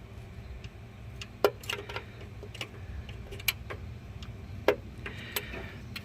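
Hand tools clinking on metal at the truck's starter: a handful of sharp, irregular clicks and taps as a wrench or socket is worked onto a bolt, over a steady low hum.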